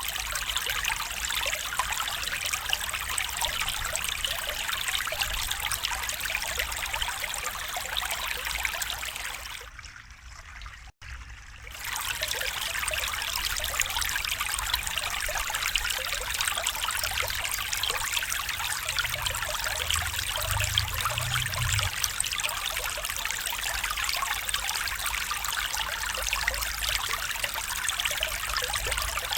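A stream babbling and trickling steadily. The water briefly fades out and back in about a third of the way through.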